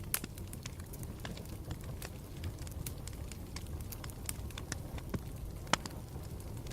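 Campfire burning with a steady low rumble, crackling and popping irregularly. A sharp pop comes just after the start and a louder one about two-thirds of the way through.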